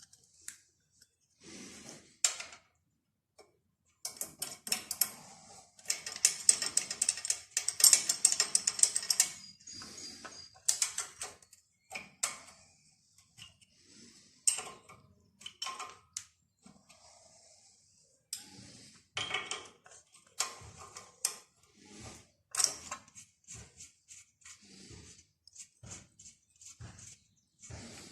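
Hand tools working on metal engine parts: scattered sharp clicks and knocks, with a dense run of rapid clicking lasting about five seconds early on.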